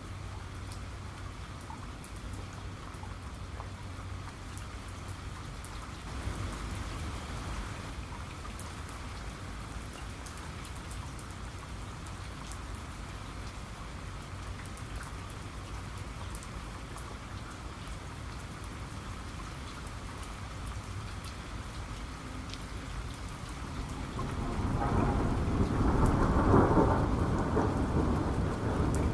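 Steady rain falling, with scattered drops ticking. A low rumble of thunder swells in about 24 seconds in and is loudest near the end.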